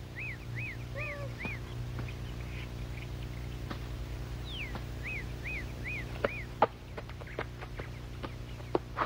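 A bird singing twice, each phrase one falling whistle followed by four quick chirps, over a steady low hum. A few sharp clicks come in the second half.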